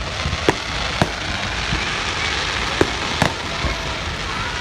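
Fireworks going off: four sharp bangs, two close together near the start and two close together past the middle, over a steady hiss.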